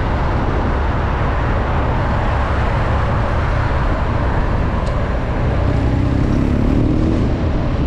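BMW R nineT's boxer twin running on the move, with a steady rush of wind and road noise over it. About six seconds in, a short pitched engine note rises briefly above the rumble.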